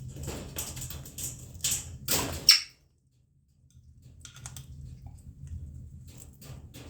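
A parrot eating: quick clicks, taps and scratches of its beak at its food, ending in a sharp knock about two and a half seconds in. The sound then drops out completely for about a second and comes back as fainter, scattered clicks.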